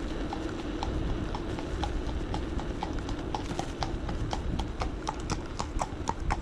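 Horse's hooves clip-clopping on a tarmac lane at a walk in a steady beat, getting louder as the horse comes closer.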